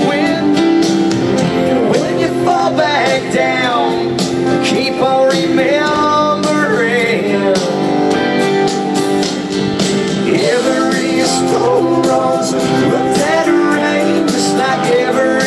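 Live country-rock band music: a melody line sliding and bending between notes over sustained guitar chords and a steady drum beat.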